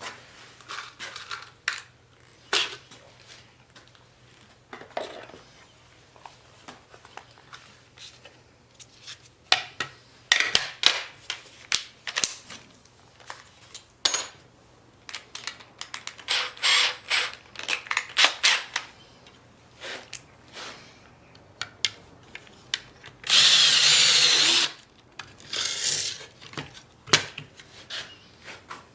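Workshop tool handling: scattered knocks and clatters of tools and metal parts, with a short burst of a power tool running for about a second and a half near the end, and a shorter burst just after.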